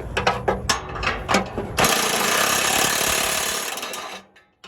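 Hand-tool work on a junkyard vehicle: a quick run of ratchet-like clicks and knocks, then about two seconds of loud, steady hiss that stops abruptly.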